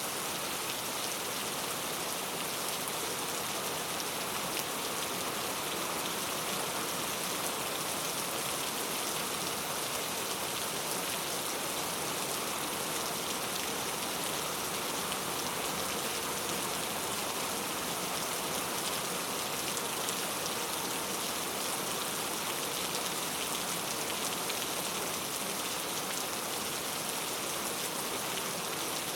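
Steady rain falling, a dense even hiss of drops with fine pattering ticks on a surface.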